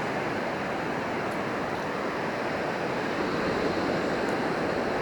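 Ocean surf washing on the beach, a steady rush of waves with no break.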